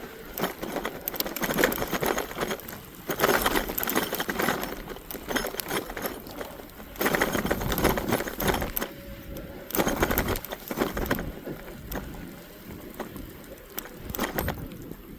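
Electric bike riding over rough, snow-covered ground: the tyres crunch through the snow and the bike rattles and clicks, in uneven surges. A faint motor whine comes briefly about nine seconds in.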